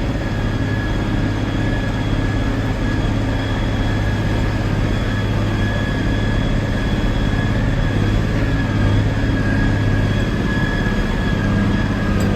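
Tractor engine running steadily while towing a loaded scraper pan: a loud, even low drone with a faint steady whine above it.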